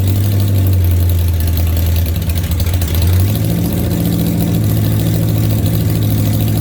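Engine idling with a strong low hum. The idle wavers and dips about two to three seconds in, then settles back to a steady run.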